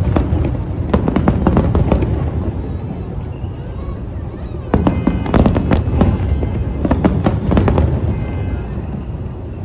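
Aerial fireworks shells bursting in quick volleys of booms and crackles: one flurry at the start and a denser one from about five seconds in.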